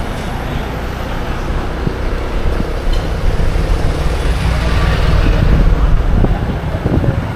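Motorbike on the move: a low, continuous rumble of wind and engine that grows louder for a few seconds in the middle, then eases off.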